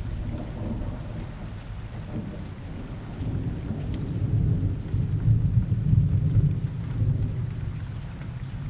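Rain-and-thunder ambience: steady rain with a low rumble of thunder that builds about four seconds in and eases near the end.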